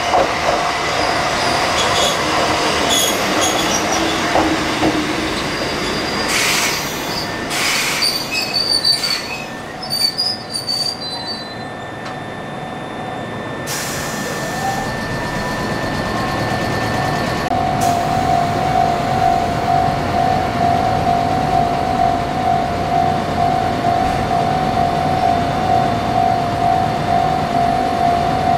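A Kotoden 1080-series electric train (ex-Keikyu 1000) at a station. A steady high squeal is followed by several clanks, then a rising motor whine as it moves off. A ringing tone pulses about once a second through the second half.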